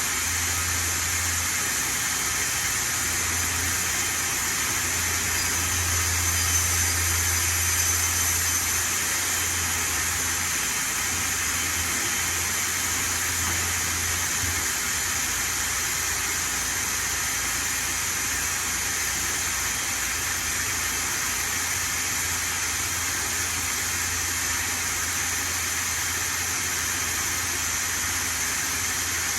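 Hendrick HM3 3200 machine cutting plywood: a steady hiss and whine with thin high tones running through it, over a low hum that swells and drops several times in the first half.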